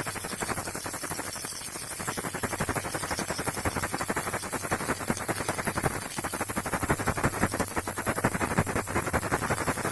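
Baby rattle shaken continuously, its beads giving a rapid, steady clicking clatter.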